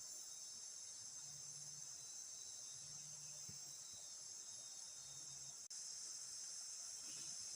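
A steady, high-pitched forest insect chorus of crickets and cicadas, with faint low hums coming and going about once a second. The sound drops out for an instant about two-thirds of the way through.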